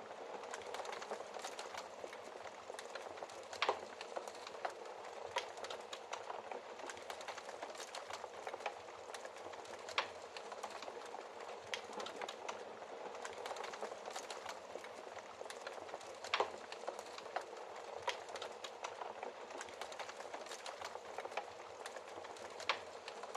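Wood fire crackling in a fireplace: a soft steady hiss with frequent small snaps and a few louder pops several seconds apart.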